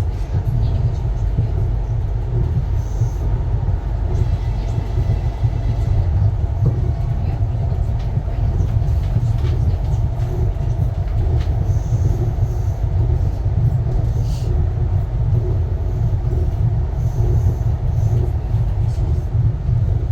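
Ivolga electric train in motion, heard from on board: a steady low rumble of the running train.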